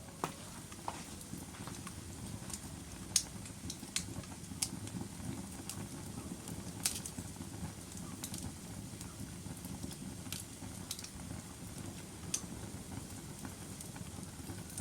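Log fire burning in a fireplace: a steady low rumble of the flames with irregular sharp crackles and pops from the logs. The loudest pop comes about three seconds in.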